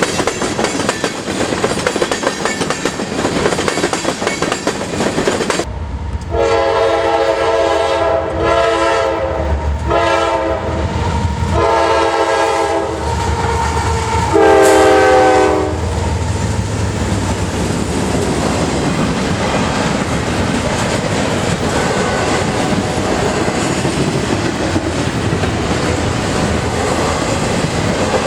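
Freight train rolling by, its wheels clattering over the rail joints. About six seconds in, a locomotive horn sounds four blasts in quick succession, then after a short pause a fifth, louder blast, before the clatter of the passing cars carries on alone.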